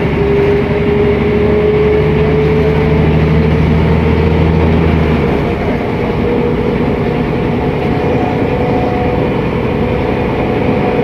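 Mercedes-Benz O500MA articulated bus heard from on board while under way, its diesel running under load with a whine that rises in pitch. About five seconds in, the low engine drone drops away and the ride carries on with steady running noise and the whine.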